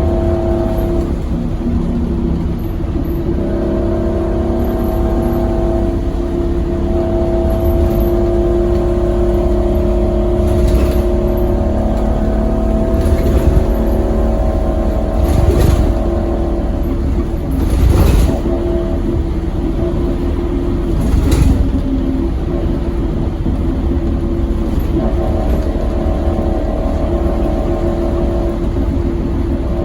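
Scania K270UB Omnilink bus's engine, a 9-litre five-cylinder, running under way through its ZF Ecomat automatic gearbox, its pitch climbing and shifting as it pulls. Five sharp knocks or rattles from the bus body come about every two to three seconds in the middle stretch, the loudest about eighteen seconds in.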